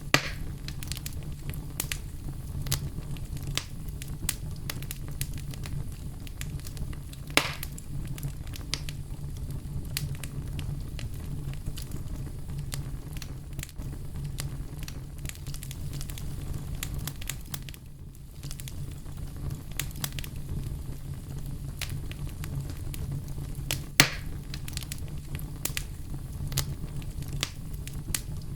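Bonfire burning: a steady low rumble with frequent small crackles and a few sharp pops, the loudest right at the start, about 7 seconds in and about 24 seconds in.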